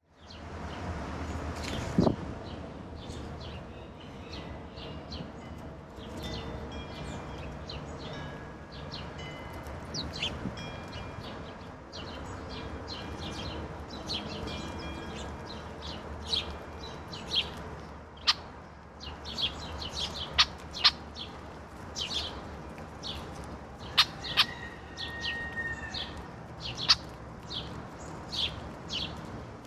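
Wild songbirds calling and chirping over and over, many short calls overlapping, with a steady low background rumble. A sharp knock about two seconds in, and a few sharper clicks later on.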